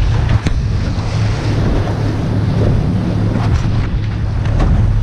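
Wake waves from passing patrol boats slapping and rocking a small fishing boat, with heavy wind buffeting on the microphone. A few sharp knocks, about half a second in and again later, mark waves hitting the hull.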